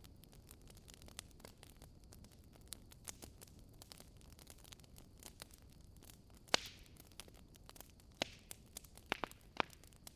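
Wood fire burning in a fireplace: logs crackling with irregular sharp pops over a low steady hiss, the loudest pop about six and a half seconds in with a short hiss after it, and a run of pops near the end.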